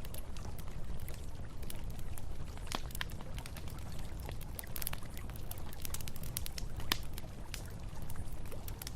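Wood campfire crackling, with irregular sharp pops and snaps, the loudest about three, five and seven seconds in, over the steady low rush of a flowing river.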